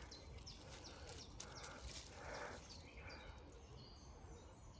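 Faint animal calls: a few short, high chirps that fall in pitch, over a low background hiss.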